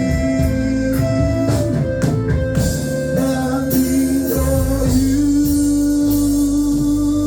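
Live church worship music: a band with guitar, keyboard/organ and drums playing sustained chords, with singing.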